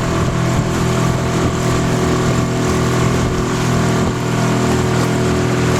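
Outboard motor of a small aluminum boat running at a steady speed while the boat is under way.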